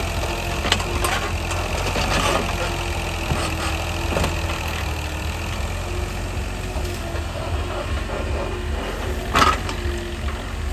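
An engine running steadily at idle, with a few short clicks or knocks on top, the loudest about nine and a half seconds in.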